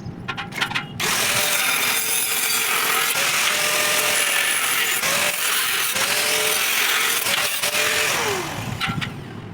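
Angle grinder running on steel for about seven seconds, a harsh grinding noise with a wavering motor tone that sinks as the disc winds down near the end. A few light metal clicks come just before it starts.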